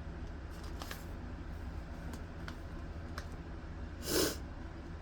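Faint scattered clicks and taps over a steady low hum, with one short, louder rush of noise about four seconds in.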